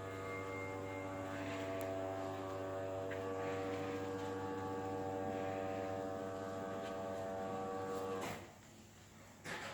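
A steady electric motor hum with a buzzing cluster of tones, cutting off suddenly about eight seconds in, followed by a short knock.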